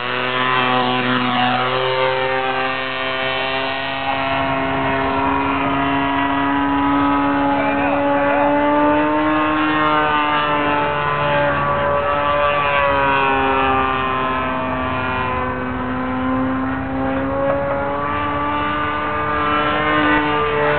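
DLE-30 single-cylinder two-stroke gas engine of a radio-controlled aerobatic plane, running and turning an 18x8 wooden propeller. Its pitch rises and falls slowly every few seconds as the throttle and the plane's distance change.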